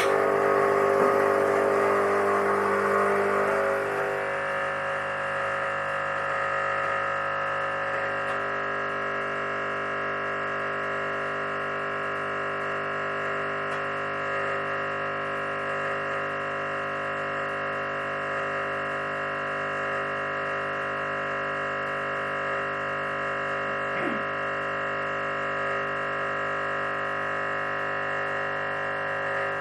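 Espresso machine pump switched on and running with a steady buzzing hum while backflushing the group head with cleaning detergent. For the first four seconds or so there is a hiss of water over the hum, then it settles to the even drone.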